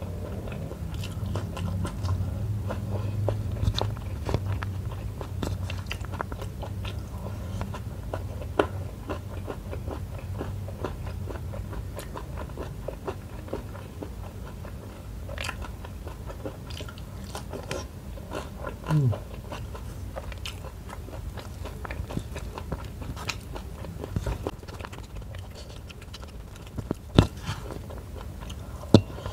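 Close-miked eating: a person biting and chewing sambal shrimp, tomato and rice, with many small wet mouth clicks and a few sharper clicks near the end.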